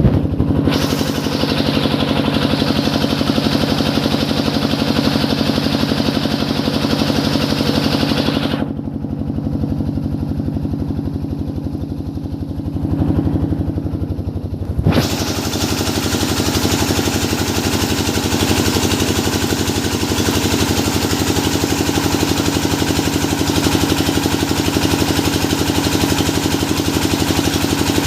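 Engine of a hydraulic deep-well drilling machine running steadily, with a hiss over it that cuts out about a third of the way in and comes back suddenly about halfway through.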